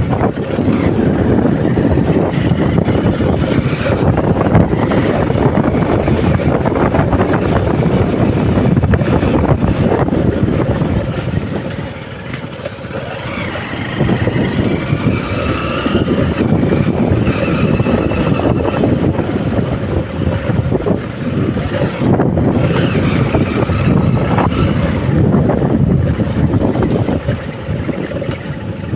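Road and wind noise from a moving vehicle, with wind rushing over the microphone. It eases off for a moment about twelve seconds in, then picks up again.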